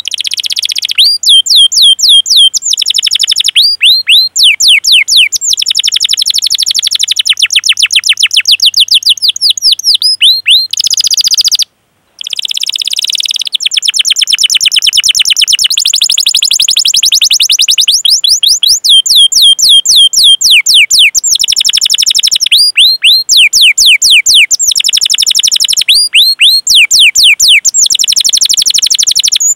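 A domestic canary sings long rolling trills of rapid, repeated high chirps, each note sliding downward. The trills come in phrases with brief pauses between them, and the song cuts off abruptly for about half a second near the middle.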